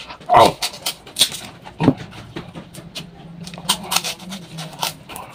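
Close-miked eating: a man chewing with his mouth open and smacking his lips on a crisp kerupuk cracker, giving several sharp crunches and clicks at uneven times. The loudest moment is a brief pitched sound with a bending pitch about half a second in.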